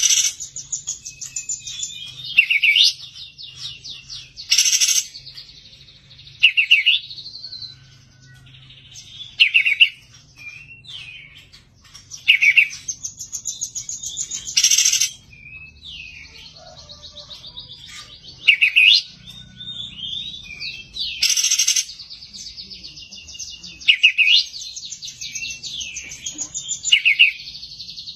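Kapas tembak songbird singing a long, fast chattering song of rapid trills and warbling phrases. Loud, sharp notes break in every few seconds.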